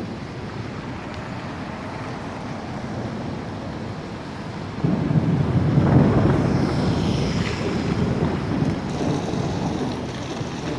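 Steady rain, with a low rumble that comes in suddenly about five seconds in and slowly eases off.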